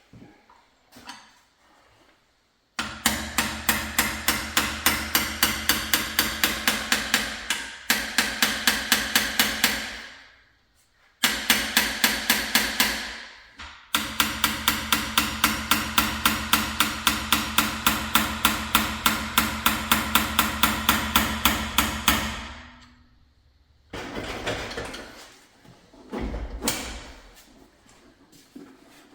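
Impact wrench hammering in three long runs of rapid, even blows, the longest lasting about eight seconds, with quieter knocks near the end.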